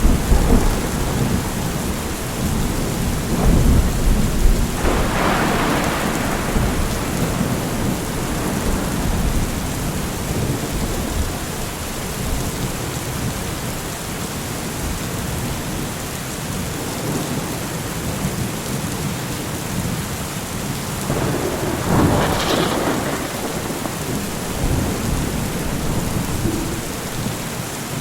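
Thunderstorm: steady rain with rolling thunder. A heavy rumble fades over the first few seconds, another peal of thunder comes about five seconds in, and a third around twenty-two seconds in.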